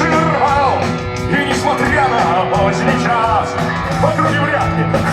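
Punk rock band playing: electric guitars, bass and drums, with a bending melody line over them that may be the lead vocal starting the first verse.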